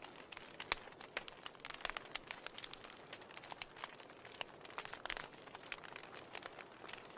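Wood fire crackling and popping: many small irregular snaps, with a few louder pops, over a soft hiss.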